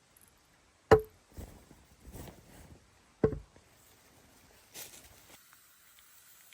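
Two sharp chopping knocks on wood, about two and a half seconds apart, each with a brief ringing tone, with softer rustling and handling sounds between them.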